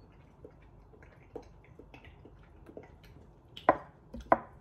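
Mouth noises of someone chewing and tasting a piece of cheese: faint scattered clicks, then two sharp smacks near the end.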